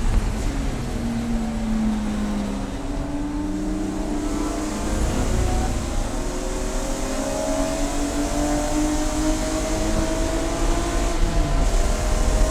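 Race car engine running at speed: its pitch dips briefly, then climbs slowly for several seconds as it accelerates, with a gear change near the end. A heavy low rumble runs under it.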